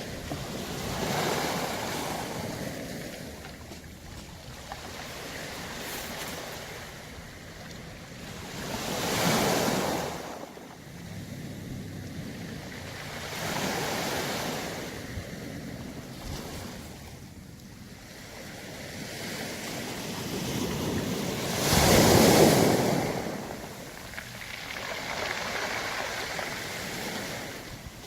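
Waves surging onto a beach of round pebbles and drawing back with the rattle of rolling stones. There are five swells, the loudest about three-quarters of the way through.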